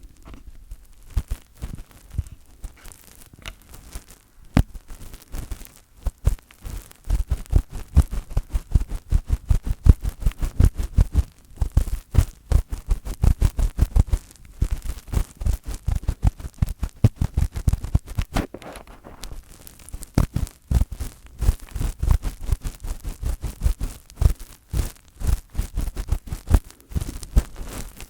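Fingertips touching and rubbing directly on the microphone, making rapid scratchy strokes with deep thuds. The strokes come sparsely at first, then pack closely together from about a quarter of the way in, with a short lull just past the middle.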